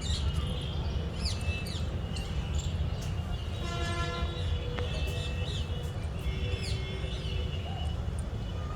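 Small birds chirping with quick, falling calls over a steady low rumble, with a brief pitched tone about four seconds in.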